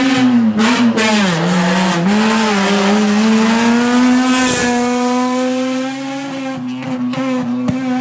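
Rally car engine running at high revs. Its pitch dips twice about one and two seconds in, then holds a steady high note as the car passes, with a few short sharp cracks near the start and again near the end.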